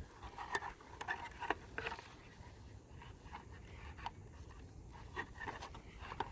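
Scattered light clicks and scrapes of a trail camera being handled and fastened to a stake.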